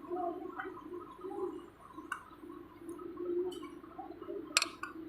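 Scattered metallic clicks and clinks of compressor parts and tools being handled, with the sharpest clink about four and a half seconds in, over a steady low hum.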